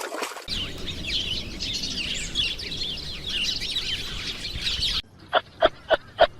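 A dense chorus of many small birds chirping and twittering over one another. About five seconds in it cuts to a different recording of short, sharp calls repeated about three times a second.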